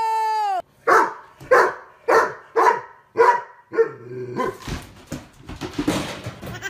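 A dog barking six times in a steady rhythm, about two barks a second, followed by rustling and scuffling.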